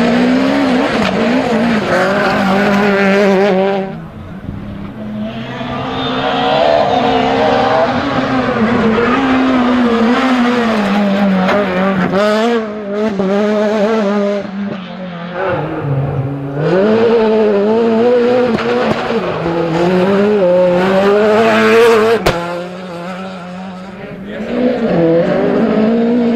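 Rally car engines revving hard, the pitch climbing and dropping again and again with gear changes and lifts, fading briefly a few times in between. A single sharp crack comes about 22 seconds in.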